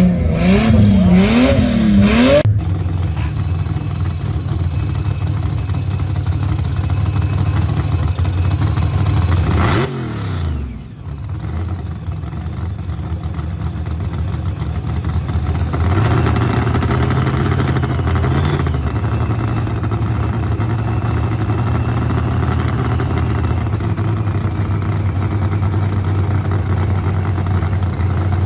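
Gasser hot rod engine revved in quick blips that rise and fall, then, after a sudden cut about two seconds in, running at a steady low idle. Around ten seconds in the pitch sweeps down and the sound dips briefly. It picks up again about sixteen seconds in.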